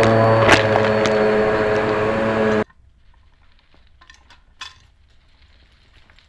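Vacmaster vacuum cleaner motor running with a steady hum, a sharp click about half a second in; the sound cuts off suddenly partway through, leaving quiet with a few faint clicks.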